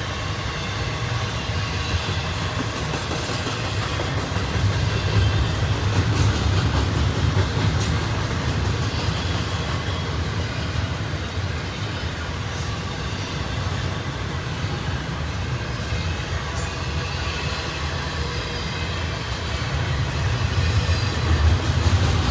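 Double-stack intermodal freight train's cars rolling past: a steady rumble of steel wheels on rail with a few sharp clicks, growing louder near the end.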